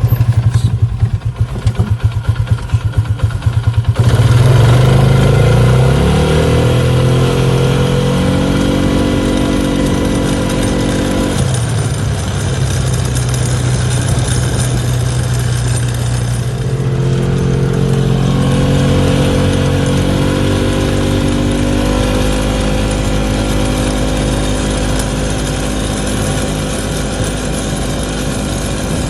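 2011 Polaris Ranger Crew UTV engine, pulsing slowly for the first four seconds, then speeding up with a rising pitch. It drops back a little before halfway, climbs again and holds a steady high-speed drone with a rattle whose cause the owner cannot find.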